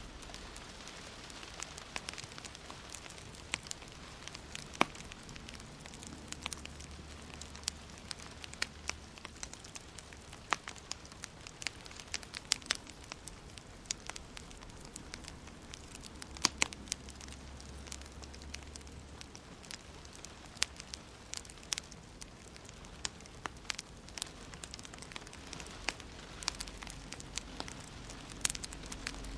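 Wood fire in a fireplace crackling, with irregular sharp pops and snaps over a steady hiss. The loudest snaps come about five seconds in and again a little past the halfway point.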